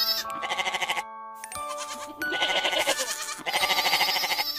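Young goat bleating: a short quavering bleat, then a longer run of quavering bleats from about halfway in, over background music with sustained notes.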